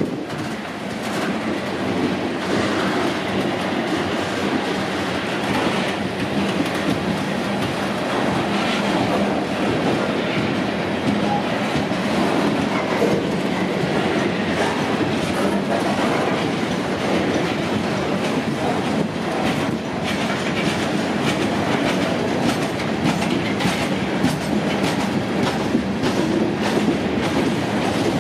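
Ballast train of GREX hopper cars rolling past at close range: a steady rumble of steel wheels on rail with a scattered clickety-clack as the wheels cross the rail joints.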